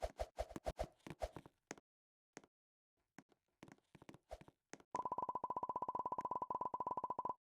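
Scattered light clicks and taps, then about five seconds in a fast run of electronic beeps at one steady pitch, which breaks off briefly near the end.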